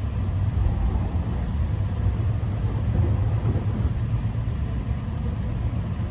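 Keihan electric train running, heard from inside a passenger car as a steady low rumble of wheels and motors.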